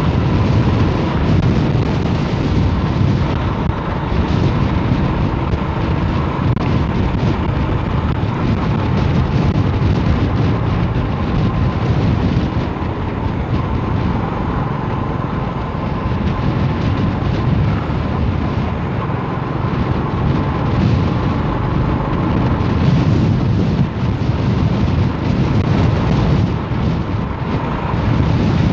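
Strong wind buffeting the microphone while riding in a vehicle, a loud steady rumble with a faint, even whine running through it.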